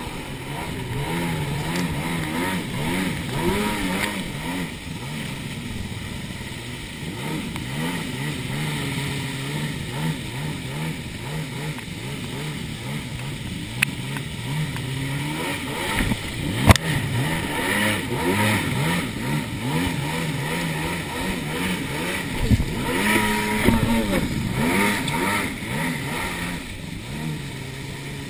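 Jet ski engines running and revving up and down, their pitch rising and falling over and over, with a sharp knock about two thirds of the way through the first half.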